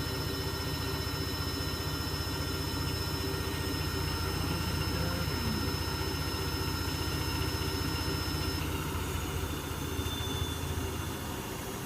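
Electrolux W455H commercial washing machine running, a steady motor hum with a thin high whine. The whine stops about two-thirds of the way through and the hum eases off near the end.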